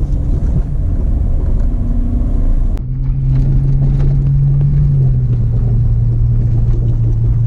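Holden VS Commodore engine running steadily at light throttle as the car is driven slowly, a low drone that eases down slightly in pitch about five seconds in. One short knock sounds just under three seconds in.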